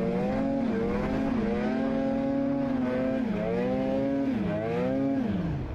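A motor vehicle engine running hard, its pitch holding, dropping suddenly and climbing again several times, like revving through shifts.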